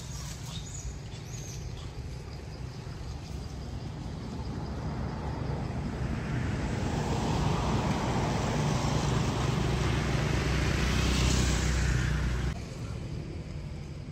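A motor vehicle going by, its noise building for several seconds to a loud peak and then cutting off suddenly near the end. A few short high chirps are heard at the very start.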